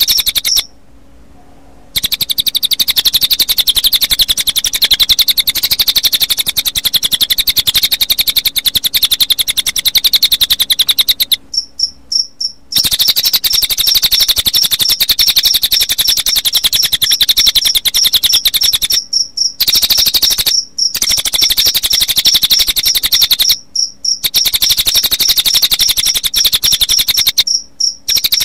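Recorded cililin bird song: very rapid, dense high chirping trills layered with cricket chirps, broken by a few brief pauses.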